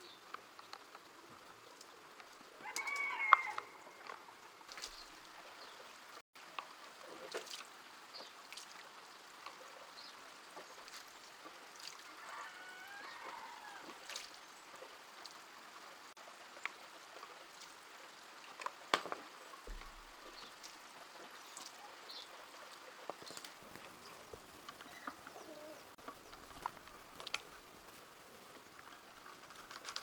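Quiet background with scattered faint clicks and taps, and a bird calling briefly twice, about three seconds in and again around twelve seconds.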